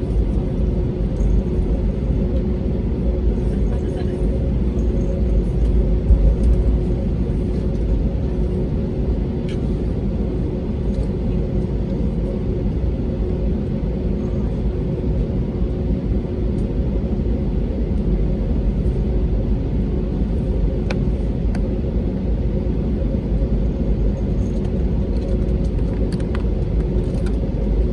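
Airbus A320neo cabin noise: a steady low rumble with a steady hum from its Pratt & Whitney PW1100G geared turbofan engines, holding an even level.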